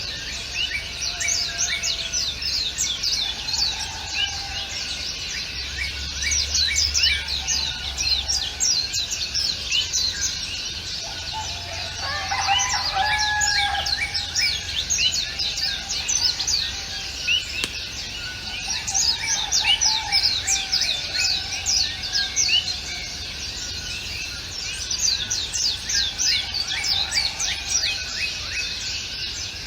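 A dense chorus of birds chirping continuously, many short notes that sweep quickly downward, over a steady low rumble. A louder, lower call stands out about twelve seconds in.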